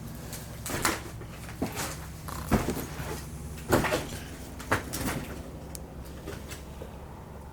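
A string of irregular knocks and clunks, about seven in the first five seconds, then fewer and quieter.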